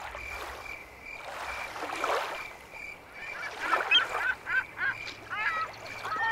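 Birds calling: a run of short calls that comes faster in the second half, over a faint high chirp repeating about twice a second and soft washes of noise.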